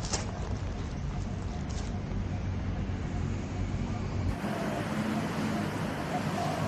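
Steady outdoor background with a low rumble of road traffic. About four seconds in the background changes abruptly, the rumble dropping away and a lighter, brighter noise taking its place.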